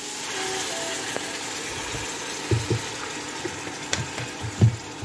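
Vegetables sizzling in a hot steel pot as vinegar is poured in, a steady hiss. In the second half a wooden spatula stirs and knocks against the pot a few times.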